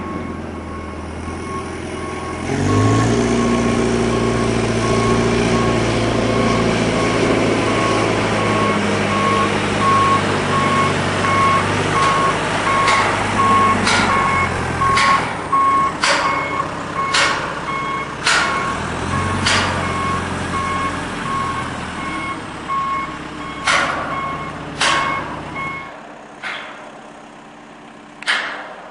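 Heavy vehicle engine running with a reversing alarm beeping steadily, joined about halfway through by a series of loud, sharp bangs, roughly one a second. The engine and beeping stop near the end, leaving single bangs.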